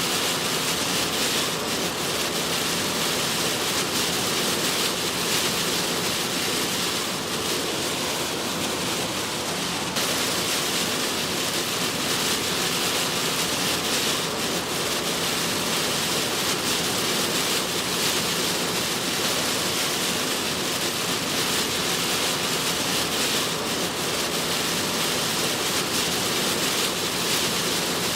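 Heavy rain pouring onto a moving car, with the hiss of tyres on a flooded road: a dense, steady rush of noise.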